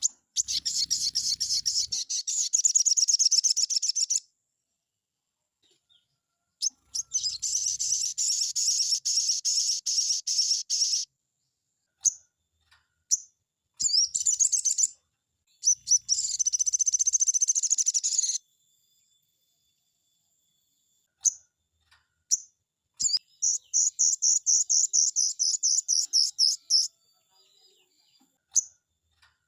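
Sogon songbird singing a fast 'nembak' song: several rapid, trilling phrases of quickly repeated high notes, each lasting two to four seconds, with single short chirps in the pauses between them.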